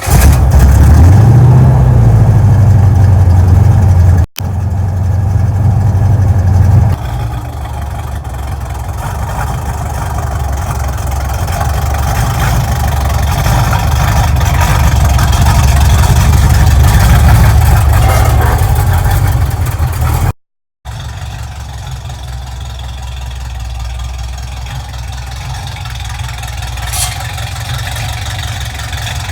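Chevrolet 350 small-block V8 running just after starting: it revs up briefly, then runs steadily. The sound breaks off abruptly at about four and twenty seconds as one clip cuts to the next.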